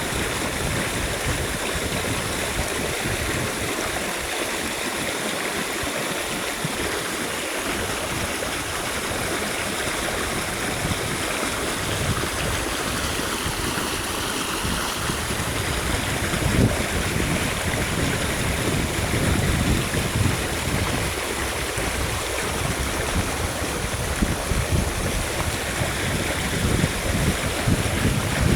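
Steady rushing of running water, with gusts of wind buffeting the microphone from about halfway on.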